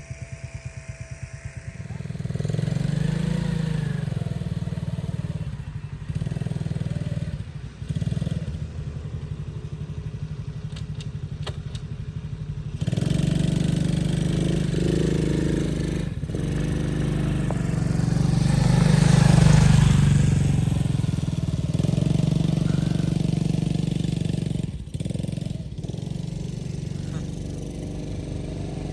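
A motor vehicle's engine runs steadily with a low pulsing hum. It grows louder about halfway through, swells further around two-thirds of the way, then eases off.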